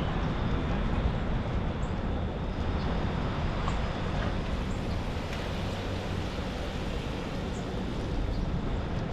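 Steady city traffic noise on a rainy street: a continuous wash of passing vehicles with a low rumble underneath.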